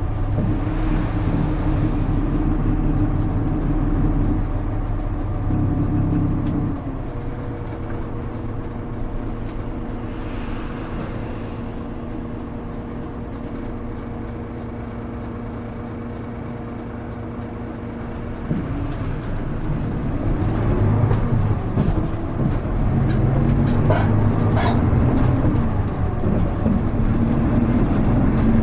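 Diesel engine of a Hino Rainbow HR (KL-HR1JNEE) city bus heard from inside the cabin. It runs under load, then about 7 seconds in drops to a quieter, steady idle. Around 18 seconds it climbs again as the bus pulls away, with a brief sharp high sound a few seconds later.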